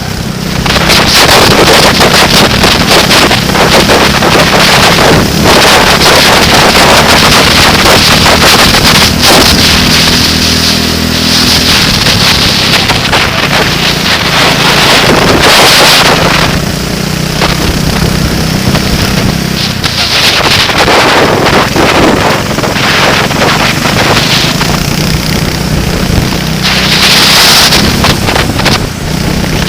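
Vehicle engine running on track, its pitch shifting up and down with throttle, under heavy wind buffeting on the microphone that swells in several loud gusts.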